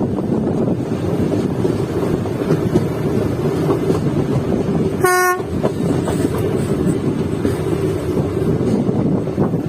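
Passenger train running with a steady rumble, and one short, sharp horn toot about five seconds in.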